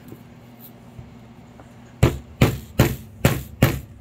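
Small hammer striking small nails into a wooden kit piece: quiet for about two seconds, then a steady run of sharp taps, about two and a half a second.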